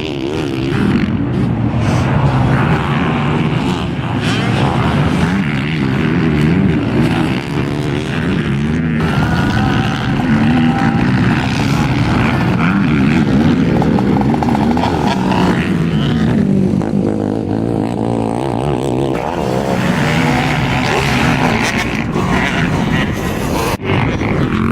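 Motocross dirt bike engine revving up and down repeatedly as the bike rides the track.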